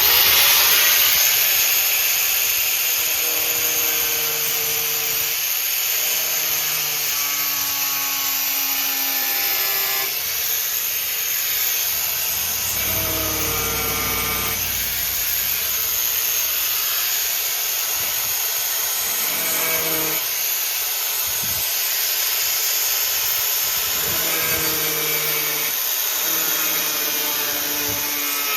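Angle grinder cutting through a car's steel floor pan: it starts up abruptly, then runs with a steady high hiss while the motor's pitch dips and rises as the wheel is pressed into the cut.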